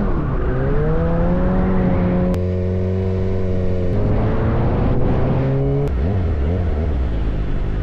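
Motorcycle engine accelerating through the gears, its pitch climbing and dropping back at each of about three upshifts.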